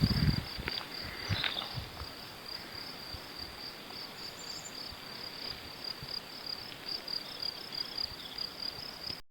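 A cricket-like insect chirping steadily in a fast, even pulse, about three to four high-pitched chirps a second, with a few light ticks in the first two seconds. It cuts off suddenly just before the end.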